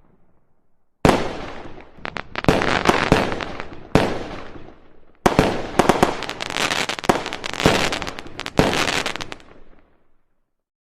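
Fireworks going off: a sudden bang about a second in, then rapid crackling and more bangs, dying away shortly before the end.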